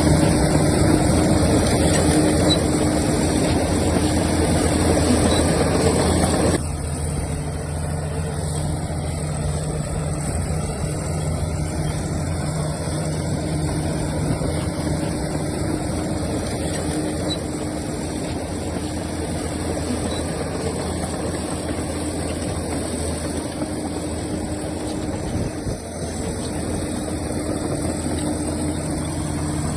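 Heavy diesel engines of earthmoving machines running steadily. The sound drops suddenly in level about six seconds in and shifts briefly again near the end.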